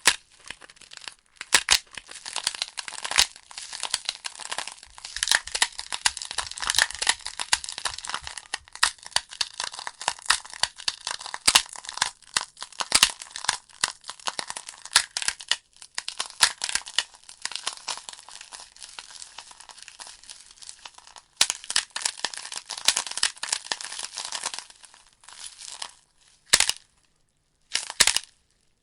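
Wood fire burning in a fireplace: logs crackling and popping in quick, irregular snaps over a steady hiss. The sound drops out briefly a couple of times near the end.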